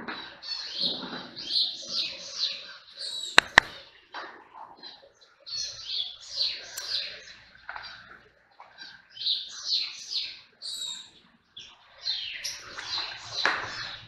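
Several birds chirping and calling over one another in quick, overlapping chirps. Two sharp clicks close together about three and a half seconds in are the loudest sounds.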